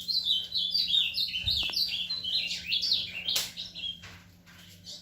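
An azulino, a small blue grosbeak, singing a fast, warbling run of short notes, many sliding down in pitch, for about three seconds before falling quiet.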